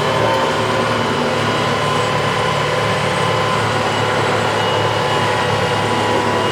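TYM farm tractor's diesel engine running steadily, with a faint high whine over the low hum.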